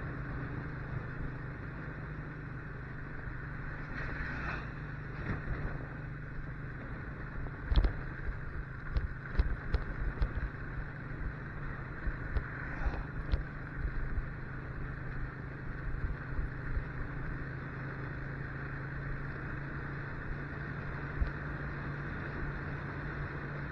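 Motorcycle engine running at a steady cruise, a low even hum under the rush of wind over the microphone, with a scatter of irregular thumps about a third of the way through.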